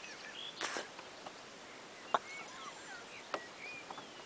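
Faint songbirds calling: scattered short whistled chirps and trills. A sharp click about two seconds in is the loudest sound, with a few softer clicks around it.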